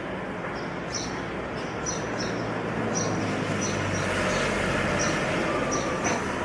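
Small birds chirping, short high chirps coming several times a second, over a steady outdoor background noise that swells in the middle.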